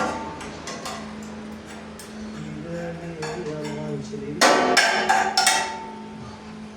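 Hammer blows on the sheet-metal casing of a car muffler as it is being opened up: light knocks at first, then a burst of about four loud metallic strikes about four and a half seconds in, with a brief ring after the last one.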